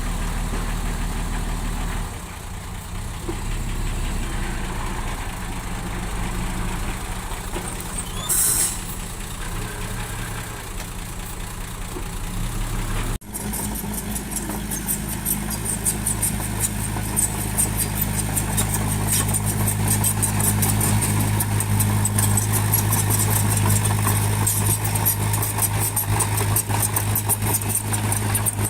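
Diesel engine of heavy earthmoving machinery running steadily, with a brief high-pitched squeal about eight seconds in. About halfway through the sound changes abruptly, and the engine is louder and deeper, with a fast rattle over it.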